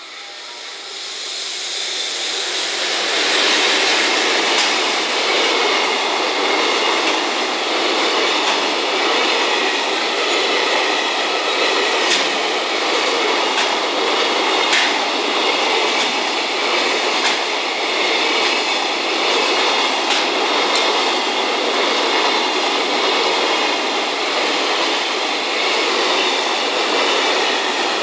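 A JR Freight EF210 electric locomotive hauls a 19-car container freight train past. The noise swells over the first few seconds as the locomotive arrives, then settles into a steady rumble and clatter of the container flatcars' wheels on the rails. A few sharp clicks from the wheels crossing rail joints stand out.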